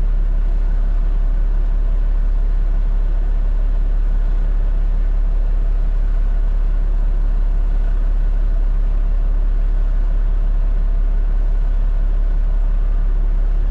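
Peterbilt 589 dump truck's diesel engine running with a steady low drone under an even wash of road noise.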